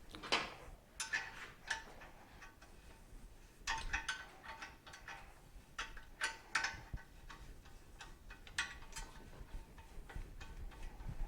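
Irregular metal-on-metal clinks and taps from hand tools working on the swing arm of a Suzuki TS250 motorcycle, each hit ringing briefly. They come in small clusters a second or two apart.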